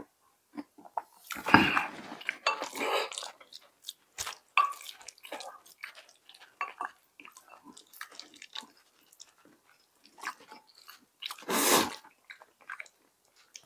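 Close-miked chewing of rice wrapped in roasted seaweed, with many small wet mouth clicks. Two louder noisy rushes come about a second and a half in and near the end.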